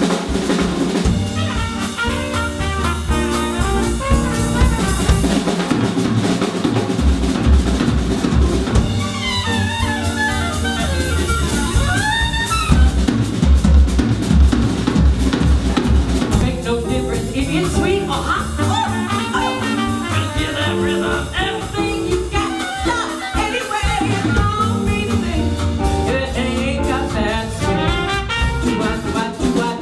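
Swing jazz band playing an instrumental passage: drum kit and bass keep a steady beat, with a fast run up and down on a horn about a third of the way in.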